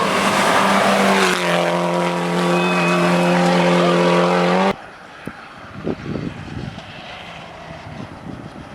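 Rally car engine running hard at high revs, its note holding steady, then stepping down a little about a second and a half in. It cuts off abruptly about halfway through. A much quieter background with a few scattered knocks follows.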